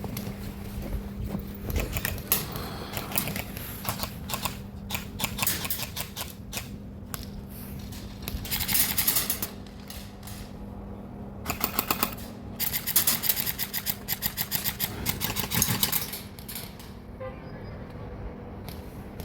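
Airsoft guns firing: scattered single shots and rapid automatic bursts of sharp clicks, the longest runs coming in the second half.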